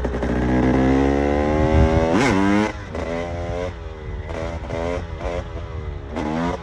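KTM EXC 300's two-stroke single-cylinder engine revs up in one long rising pull for about two seconds, then the throttle snaps shut and the engine drops back. It is then blipped again and again, a string of short rises and falls in pitch.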